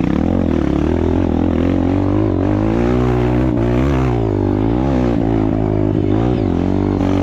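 Trail motorcycle engine running hard, its revs dipping and rising several times as the throttle is worked.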